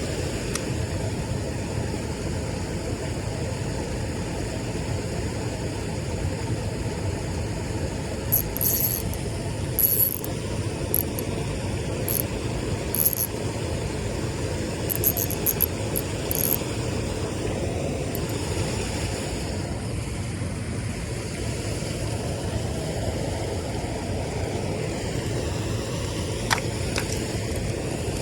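Steady low rumbling noise with no clear pitch, with a scattering of faint high clicks and jingles in the middle and a single sharp tick near the end.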